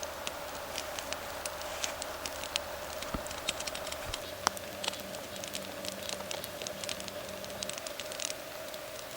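Wood fire crackling and popping: many irregular sharp snaps over a steady hiss, with a steady hum underneath.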